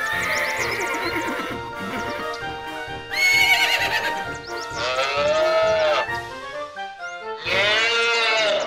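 Animal calls over background music with a steady beat: three long pitched cries of about a second each, rising and falling in pitch, the last one near the end.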